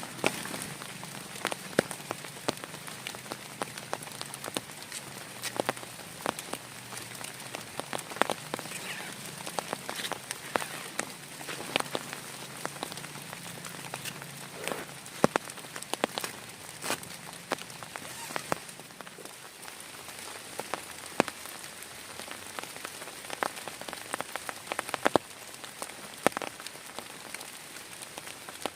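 Steady heavy rain, with many large drops striking a nearby surface as sharp, irregular taps over the hiss.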